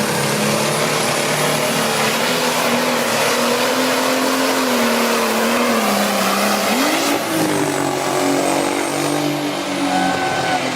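A competition pulling vehicle's engine running hard under load, with a thin high whine above it. Its note sags about six seconds in, then picks up again.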